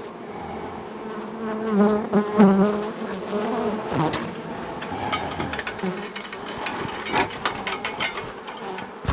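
Honey bees buzzing close to the microphone, the pitch wavering as individual bees fly near and away, loudest about two seconds in: a disturbed, defensive colony being cut out of a house wall. From about five seconds in, a run of sharp clicks and taps.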